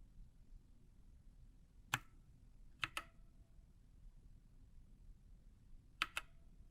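Sharp, hard clicks from a mechanical keyboard or its plastic parts being handled: a single click, then two quick pairs of clicks a few seconds apart.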